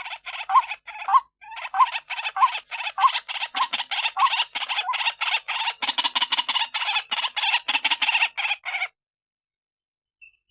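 White-breasted waterhen calling, a recorded lure call. A few spaced harsh notes quicken into a fast, dense run of repeated calls, several a second, which cut off abruptly; after a short gap they start again at the very end.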